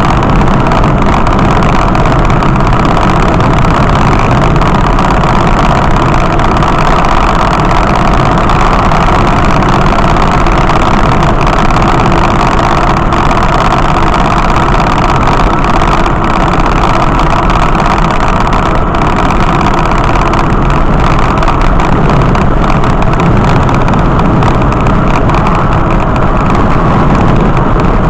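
Loud, steady noise of a vehicle on the move: road and engine noise with no change throughout.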